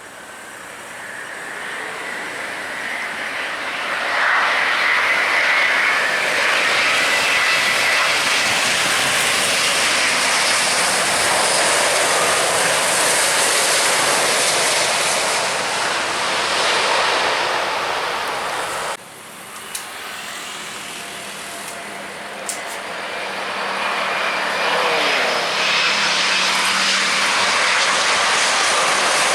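Airliner engines passing close: the noise swells about four seconds in and holds loud with a steady whine on top, then stops abruptly about two-thirds of the way through and a second aircraft's engine noise builds, with tones falling in pitch as it goes by.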